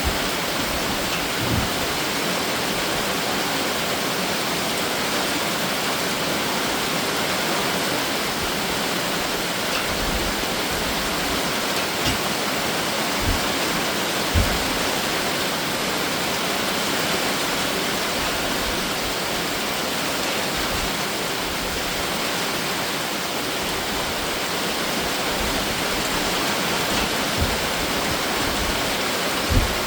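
Heavy summer rain shower pouring down steadily, with a few soft low thuds scattered through it.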